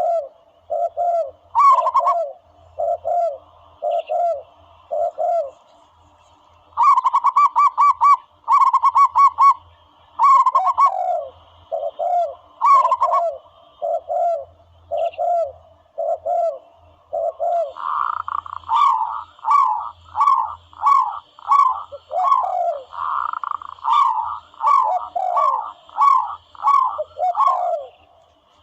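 Recorded dove calls played as a bird-hunting lure. Runs of short coos repeat about once a second, some of them rapid staccato trills.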